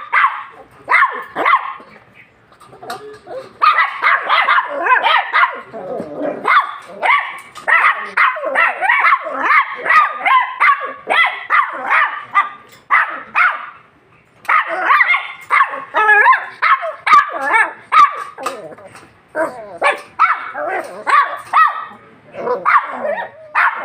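Bichon Frise puppy yapping in quick, high-pitched runs, with short pauses about two seconds in and again about fourteen seconds in.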